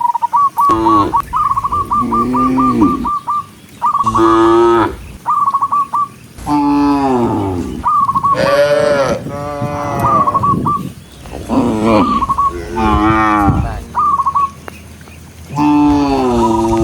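Cattle mooing over and over, about eight long calls, some deep and some higher and more strained. Between them come runs of short, high chirping notes.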